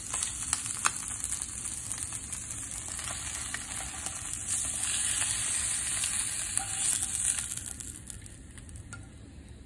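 Steak pieces and a fried egg sizzling in a hot nonstick frying pan, with a couple of sharp clicks from a spatula against the pan. The sizzle dies down near the end as the pan is lifted off the burner and the food is slid onto a plate.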